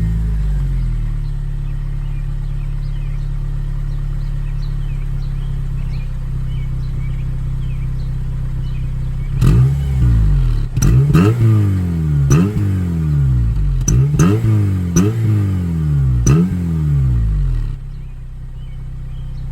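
2008 Honda Civic Si's four-cylinder engine on its stock exhaust, idling steadily, then revved about half-way through in about six quick rises and falls before settling back down near the end.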